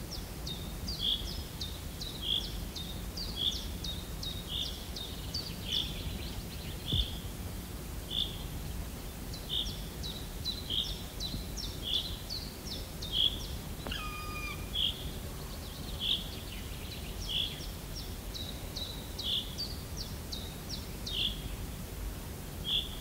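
A bird repeating a short high chirp about once a second, each chirp led by a quick flurry of ticks, over a steady low outdoor rumble. A brief whistled tone sounds about two-thirds of the way through.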